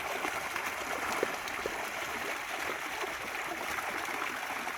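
Water running steadily, a continuous flowing stream.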